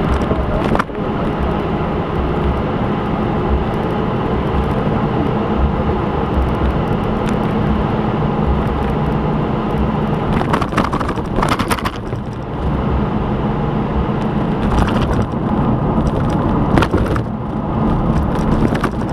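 Steady running noise of a motor vehicle, a constant low hum with a few brief louder bursts.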